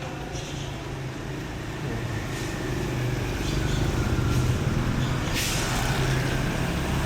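A motor vehicle's engine running close by, with a steady low hum that grows louder over the first few seconds, and a short hiss about five seconds in.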